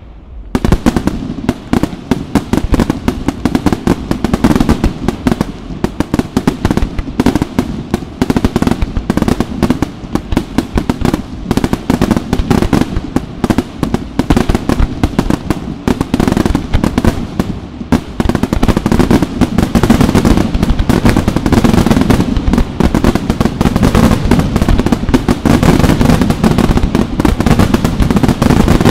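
Aerial fireworks: a dense, continuous barrage of shell bursts and crackling stars. It starts abruptly just after the beginning and grows louder and denser over the last third.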